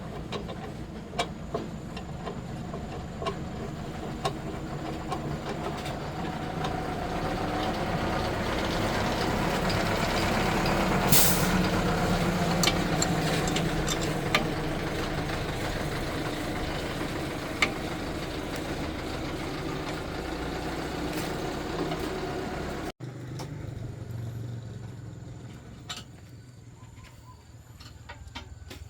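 A steady mechanical rumble swells to its loudest about eleven seconds in, then eases off, with scattered sharp taps and clicks. It drops abruptly to a quieter hum near the end.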